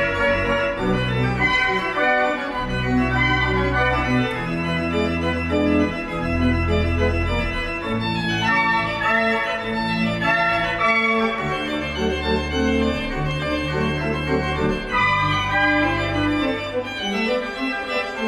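Organ playing slow sustained chords over a bass line that moves from note to note every second or two.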